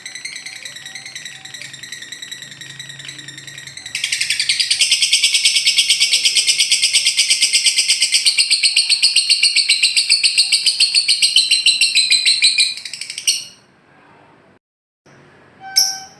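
Lovebird 'ngekek': a long, very fast, continuous chattering trill that gets much louder about four seconds in and breaks off near the three-quarter mark, followed by a few short sharp calls near the end.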